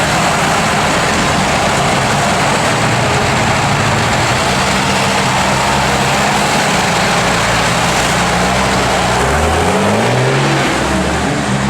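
Unimog rally-raid race truck engine running loud under a heavy rushing noise, its pitch climbing about nine seconds in as it accelerates.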